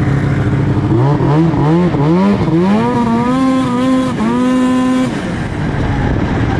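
2004 Arctic Cat F6 snowmobile's two-stroke twin, with an aftermarket can exhaust, revved in several quick throttle blips, then held at high revs for about two seconds before dropping back toward idle.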